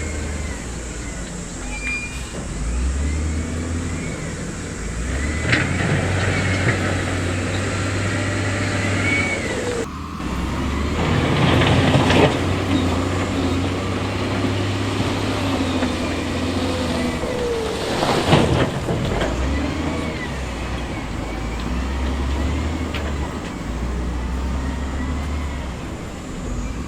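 Diesel engines of heavy construction machines, a wheel loader and dump trucks, running steadily, with high wavering squeals over them. A loud rushing, rattling burst comes about 11 seconds in, and a sharp bang about 18 seconds in.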